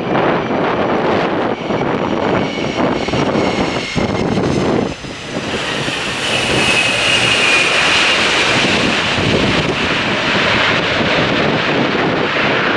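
McDonnell Douglas KC-10A Extender's General Electric CF6 turbofan jet engines running, with gusty wind buffeting the microphone. A loud, high whine rises over the engine noise about five seconds in and holds.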